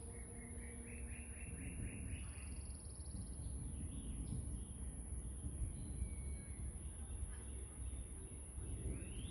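A songbird singing outdoors: a quick rising whistle followed by a run of short repeated notes, the phrase coming again near the end, over a low steady background rumble.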